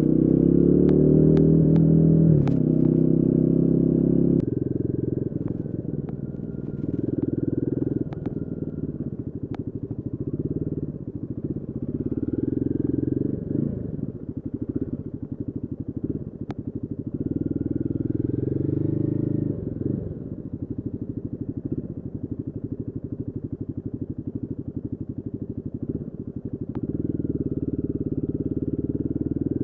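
Royal Enfield Guerrilla 450's single-cylinder engine revving up under throttle for the first four seconds, dropping abruptly at about four and a half seconds, then rising and falling in pitch several times with the throttle, with quieter off-throttle spells in between.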